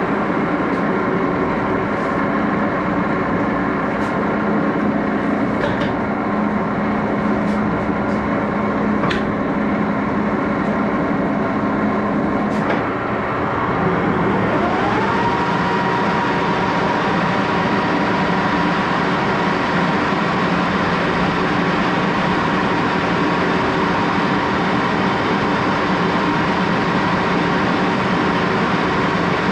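Axelson engine lathe running, its gear train giving a steady hum of several tones, with a few sharp clicks in the first half. About halfway the sound shifts and a whine rises in pitch, then holds steady.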